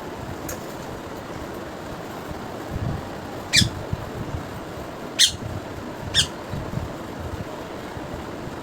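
A bird giving three short, sharp squawks, each a quick falling call, about three and a half, five and six seconds in, over a steady background hiss.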